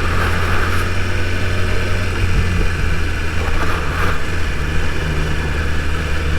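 2022 BMW S1000RR's inline-four engine running steadily while being ridden, its low note shifting slightly about five seconds in, with a steady rush of noise over it.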